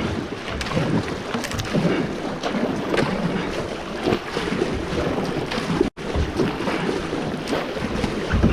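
Water splashing and rushing around a moving kayak, with wind buffeting the microphone. The sound cuts out for an instant about six seconds in.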